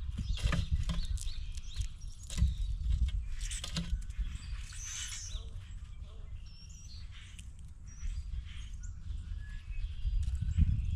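Outdoor feeder ambience: a steady low rumble, likely wind on the microphone, with a few sharp taps in the first four seconds and bird calls, one louder call near the middle.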